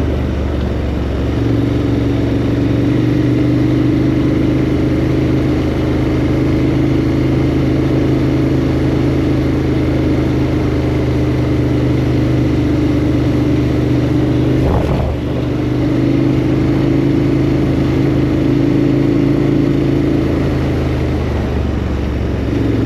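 KTM 1290 Super Adventure R's V-twin engine running at a steady cruising speed, with a short break in the engine note about two-thirds of the way through.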